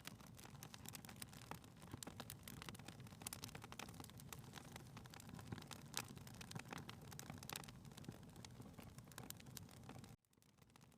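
Faint crackling of a wood fire in a fireplace: a low, steady rumble with many small sharp pops and snaps. The sound drops out abruptly about ten seconds in and slowly swells back.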